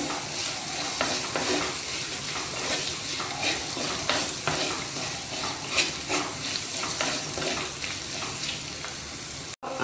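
Chopped shallots, coconut and dry red chillies sizzling in hot coconut oil while a wooden spatula stirs and scrapes them around the pot, with scattered light clicks of the spatula against the pot.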